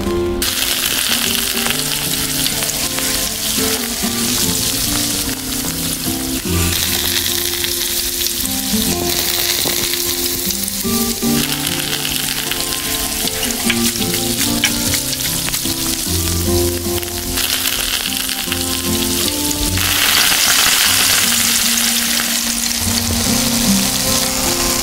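Food sizzling in hot oil in a miniature pan, the sizzle swelling and easing in stretches, with background music underneath.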